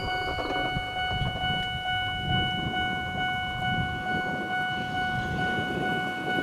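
Eizan Electric Railway 800 series electric train approaching slowly over curved track, a low rumble of wheels on rail. Over it runs a steady high ringing tone of several pitches that holds unchanged and cuts off near the end.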